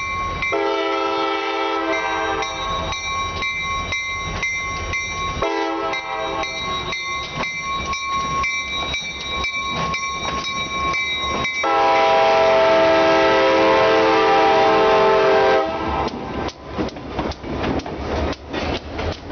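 Diesel locomotive air horn blowing a chord in three blasts: a longer blast, a short one, then a louder long blast. After the horn stops near the end, the wheels clack over the rail joints as the train rolls past.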